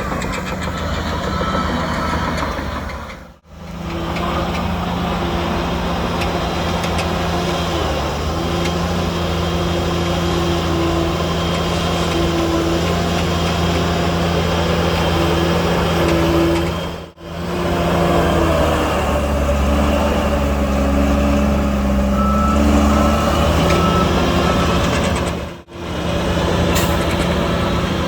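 Heavy diesel engines of a bulldozer and dump truck running steadily under load, with a reversing beeper sounding near the start and again near the end.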